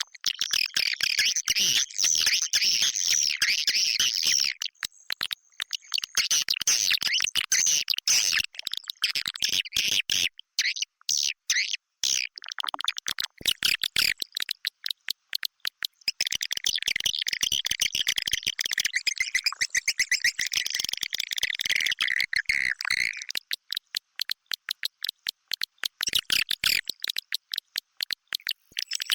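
Colony of edible-nest swiftlets twittering inside a swiftlet house: rapid, high chirps and clicks, thick at the start and again in the second half, thinning to scattered quick clicks between. This is a swiftlet lure call, played to draw swiftlets in to nest.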